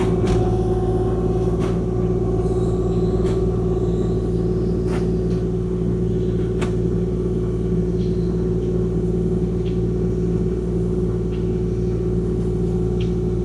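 Kubota KX040-4 excavator's diesel engine running at a steady speed, with a few faint clicks over it.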